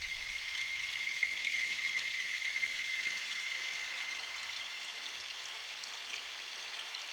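Steady rain falling in a forest, an even hiss with a thin high buzz in it that fades out about five seconds in.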